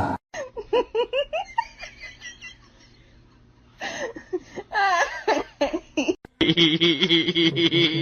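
A person laughing in quick bursts, in two spells, with a brief pause between them.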